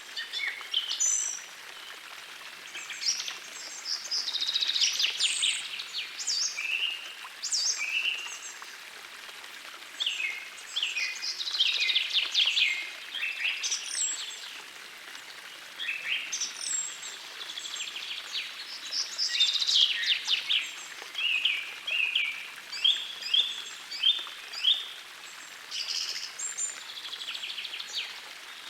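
Several songbirds singing one after another in dense, overlapping phrases of quick trills and down-slurred notes, over the soft steady rush of a forest stream.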